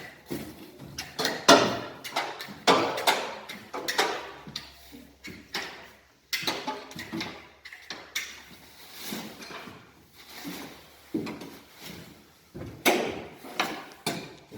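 A boat's camouflage cover being set up by hand: irregular rustling, scraping and knocking from handling the cover and its fittings, in quick bursts that keep going throughout.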